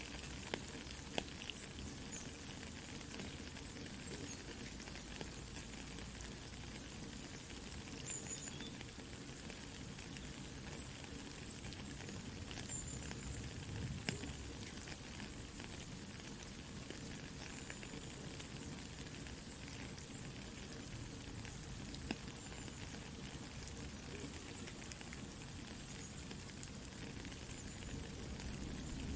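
Soft steady rain with a crackling campfire, small sharp pops and snaps scattered over the even hiss of the rain.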